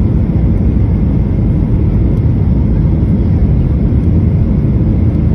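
Swoop Airlines Boeing 737 on approach: a loud, steady low rumble of jet engines and airflow.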